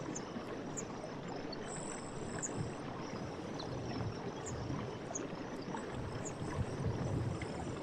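Night forest ambience: moving water with uneven low swells, under a high insect buzz about two seconds in and short, high, falling chirps scattered throughout.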